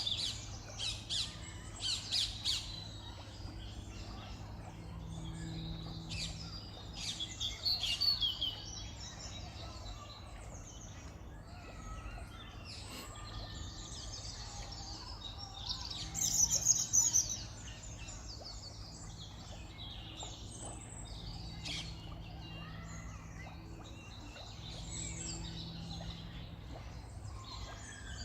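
Small birds chirping and calling in repeated bursts of short, high notes, busiest near the start, about eight seconds in and again around sixteen seconds, over a steady low background hum.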